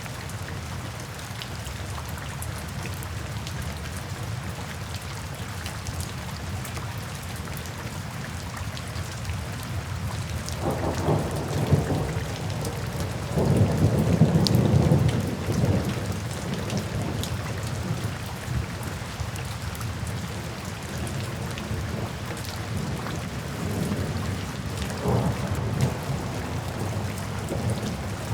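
Steady rain falling, with thunder rumbling in about ten seconds in, growing loudest a few seconds later and then dying away. A fainter roll of thunder comes near the end.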